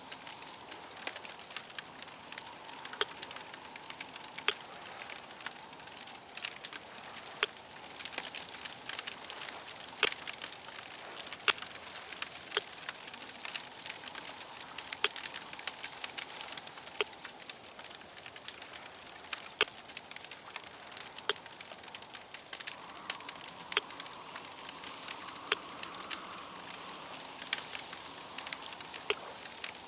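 Wood fire crackling: frequent sharp, irregular pops and snaps over a steady hiss. A faint hum underneath swells briefly about three-quarters of the way through.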